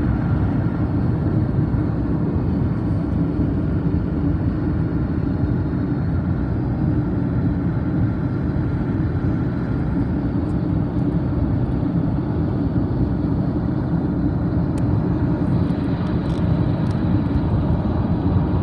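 Steady road and engine rumble of a car driving along a highway, heard from inside the cabin.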